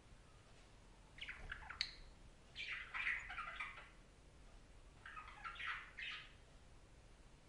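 Budgerigar chirping and chattering in three short bursts of about a second each, with pauses between them.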